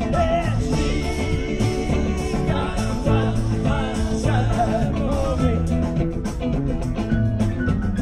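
Live rock band playing an instrumental passage between sung lines: steady bass and drums under a lead melody line that bends in pitch.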